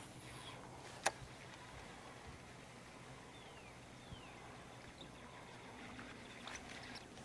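Quiet ambience out on the water: a faint steady low hum, one sharp click about a second in, and two short high falling chirps near the middle.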